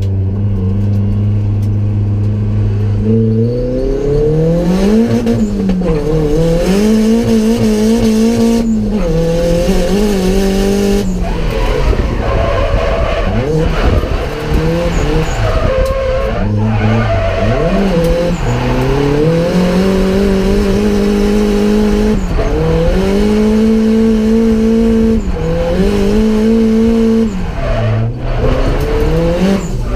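Nissan 180SX drift car's engine heard from inside the cabin: low and steady at first, then revving up about three seconds in and rising and falling again and again, held high for long stretches with short dips as the throttle is lifted or a gear is changed. Tyres squeal under the engine as the car slides.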